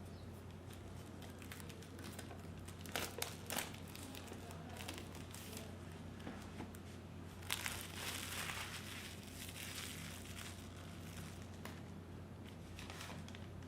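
Plastic packaging crinkling and rustling as it is handled, with a few sharp clicks about three seconds in and a longer spell of crinkling about halfway through. A steady low hum runs underneath.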